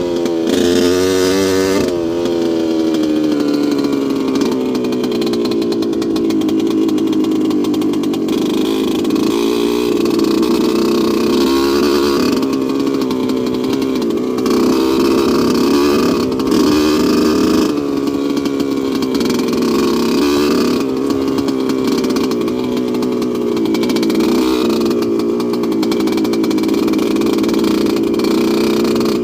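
2002 Yamaha YZ125's single-cylinder two-stroke engine running. Its pitch swings up and down, drops about two seconds in, then holds with small rises and dips as the throttle varies.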